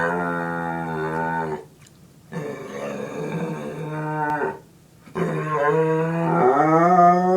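Pit bull terrier howling in three long, drawn-out calls with short pauses for breath between them; the last call rises in pitch near the end.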